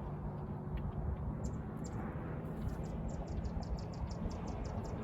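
A small bird chirping: short, high chirps that begin about a second and a half in and settle into a quick, even run of about five a second, over a steady low hum.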